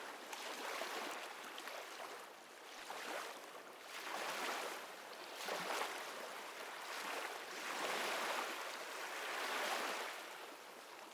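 Ocean waves washing in: a rush of surf that swells and eases every couple of seconds.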